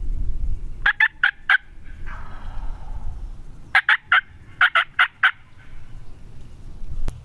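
Wild turkey gobbling: a quick gobble about a second in, then a longer rattling gobble around four to five seconds. A low rumble runs underneath, and a single sharp click comes near the end.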